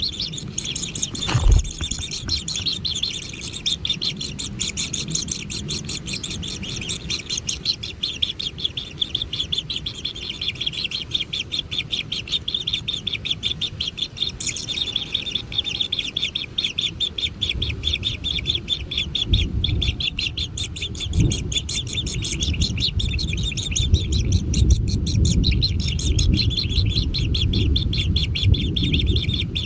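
Kingfisher nestlings begging: a continuous, fast chatter of high chirps. There is a sharp thump about a second and a half in, and low rumbling noise through the second half.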